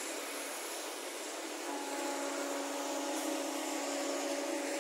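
Passenger train running away along the track: a steady hiss of wheels on rails. About two seconds in, a steady humming tone joins it.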